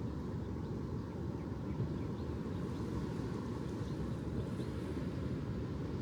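Steady low rumble of ocean surf and wind, with a few faint short chirps above it.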